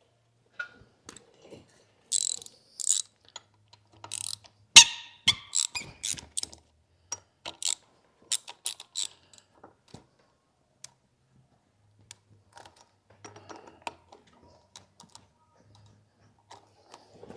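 Irregular metallic clicks, clanks and rattles from hand tools and the seal installer tool being worked on the engine's crankshaft end, with one sharp knock about five seconds in.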